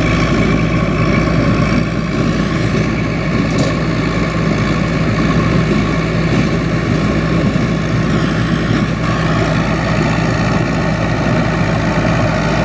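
Massey Ferguson 675 tractor engine running steadily while powering a Welger AP 530 small square baler.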